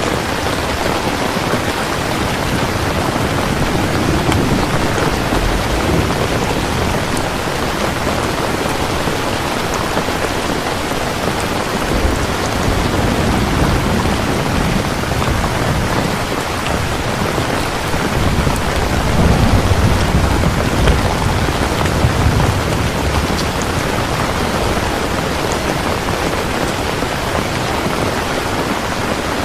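Steady heavy rain falling, with low rolls of thunder swelling up several times, the loudest about two-thirds of the way through.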